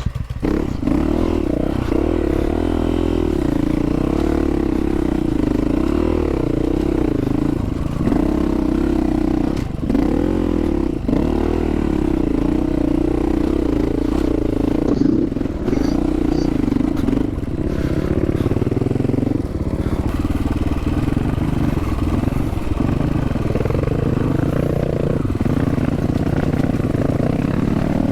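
Dual-sport dirt bike engine running under way, its pitch wavering and dipping briefly several times as the throttle is eased and opened again, with some clatter.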